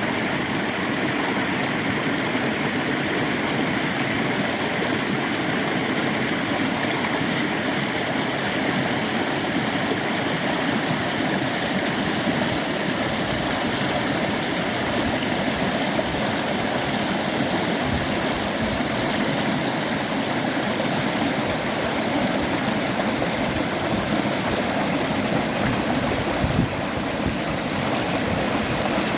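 Mountain stream water flowing over rocks, a steady rushing and gurgling, with one brief bump about three seconds before the end.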